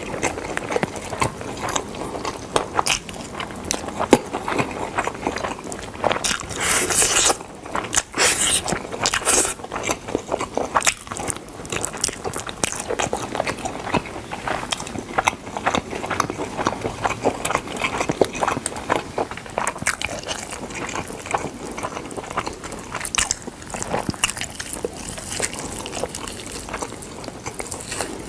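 Close-up mouth sounds of biting and chewing smoked chicken: dense, irregular wet clicks and crackles, busiest about seven to nine seconds in.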